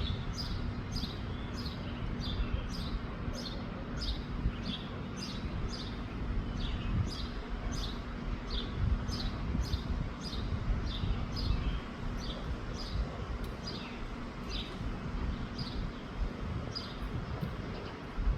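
A bird chirping over and over, short falling chirps about twice a second, over a low rumble of wind on the microphone.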